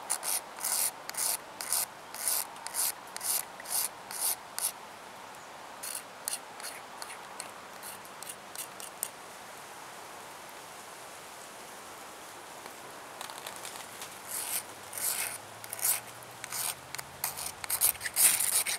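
A knife blade scraping in quick rasping strokes, about two a second, to shave off fine tinder for a spark fire. The strokes pause for a few seconds in the middle, then start again.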